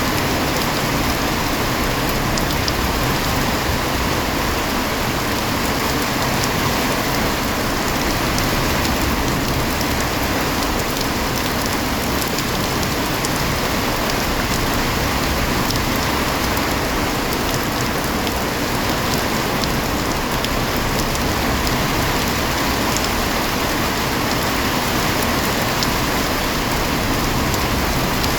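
Heavy rain falling steadily and pattering on surfaces, an even, unbroken hiss with scattered drop ticks.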